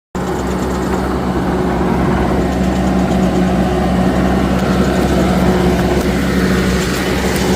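Deutz-Fahr vineyard tractor and Gregoire GT3 grape harvester running together in a steady, even drone with a constant hum, cutting in suddenly at the start.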